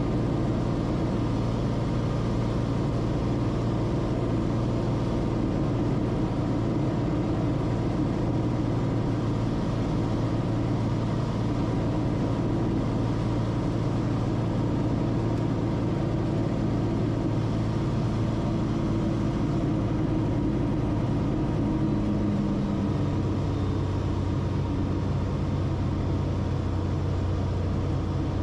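Steady in-flight cabin drone of a Cessna Corvalis TTX: its turbocharged six-cylinder engine and propeller running at cruise, a constant low hum with engine tones over a wash of airflow. Near the end the low hum shifts in tone.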